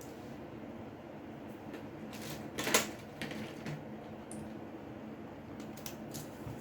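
A few light clicks and taps, with the loudest about two and a half seconds in and a few more lighter ones near the end, over a steady low hum.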